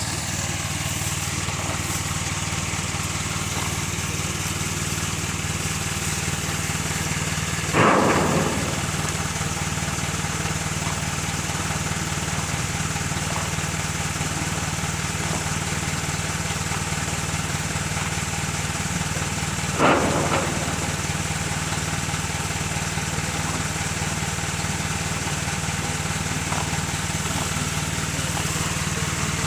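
Truck engine running steadily, with two heavy thuds about twelve seconds apart.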